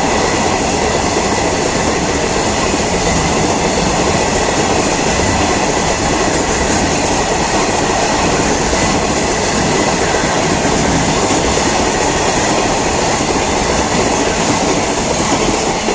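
Train hauled by a WAG-7 electric locomotive running on the track: a steady, loud rumble of wheels on rail with a faint high steady tone above it.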